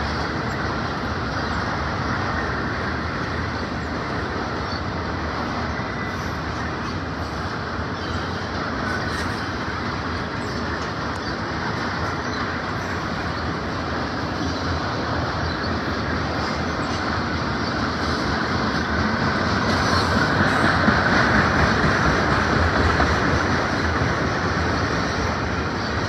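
Freight train of autorack cars, tank cars and covered hoppers rolling steadily past close by: a continuous noise of steel wheels on rail, swelling a little about twenty seconds in.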